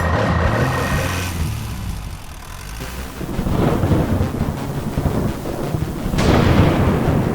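Low rumbling noise that dips and swells, with a sudden louder rush about six seconds in that then fades.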